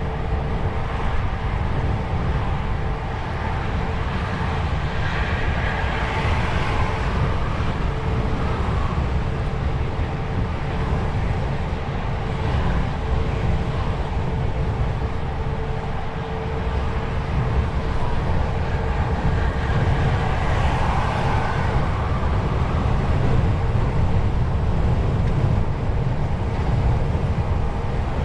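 DAF XF truck on the move: the diesel engine and tyres give a steady low rumble with a faint constant hum. Higher rushing noise swells twice, about a third of the way in and again past the middle.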